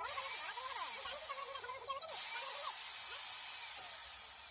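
Kärcher K4 Compact pressure washer running and spraying water: a loud, steady hiss that breaks off for a moment about two seconds in, starts again, and fades near the end.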